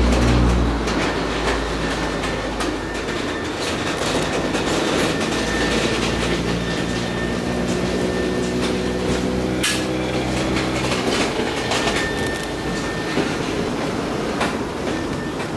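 Freight train tank cars rolling past close by, steel wheels clattering and clicking over the rail, with a faint high wheel squeal. A sharp knock stands out about ten seconds in.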